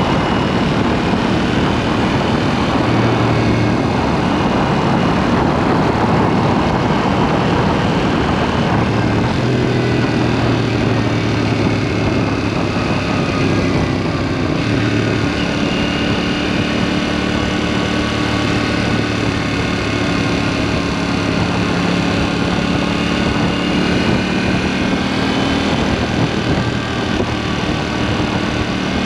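KTM 790 Duke's parallel-twin engine through an aftermarket SpeedPro Cobra SPX exhaust, running at fairly steady cruising revs with some changes in pitch, under a rush of wind noise. Heard close up from under the pillion seat.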